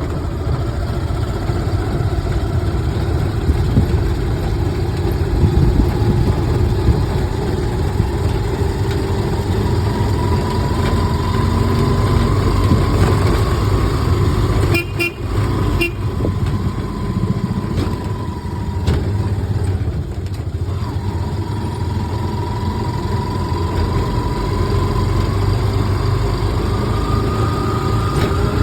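Strong typhoon wind gusting against the microphone, a heavy low buffeting with a thin whistle that wavers in pitch around it.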